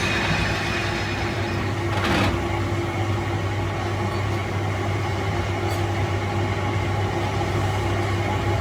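A workshop machine running with a steady hum, with a single knock about two seconds in and a faint tick later.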